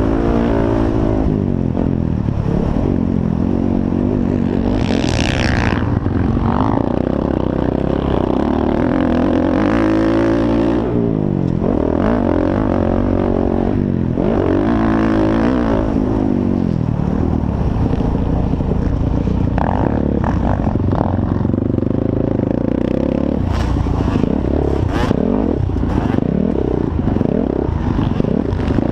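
Several motocross dirt bikes racing, their engines revving up and falling back again and again through the gears, with a few sharp clacks near the end.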